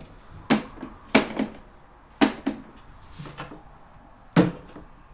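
A handful of sharp knocks and clunks, five separate hits spread irregularly over a few seconds, like hard parts being handled and set down.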